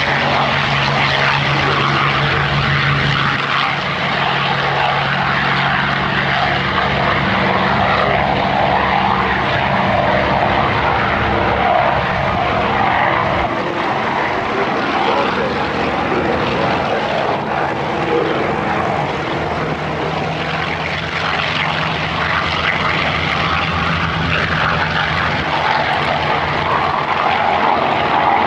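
Propeller-driven piston warbirds flying past with a steady, loud drone of aircraft engines, a low engine hum under a wide roar.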